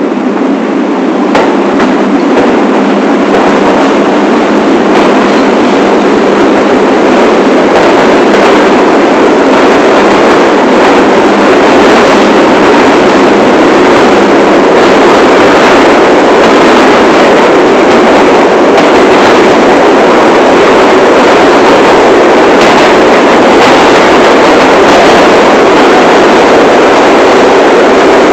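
New York City subway train of the 1 line running along the track, heard from inside the front car: a loud, steady running noise that builds over the first few seconds, with occasional faint clicks.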